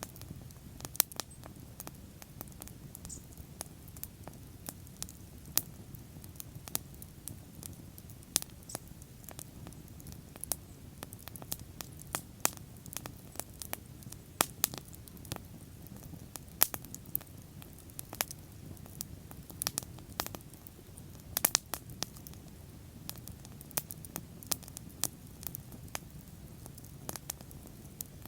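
Wood fire burning with irregular sharp crackles and pops over a low, steady rumble of flame, a small burst of pops about 21 seconds in.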